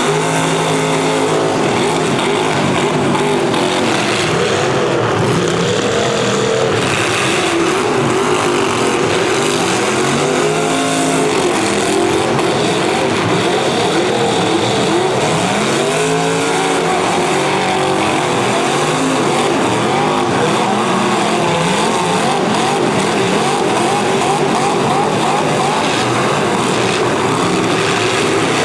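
Several demolition derby cars' V8 engines revving and running together, their pitches rising and falling over one another throughout.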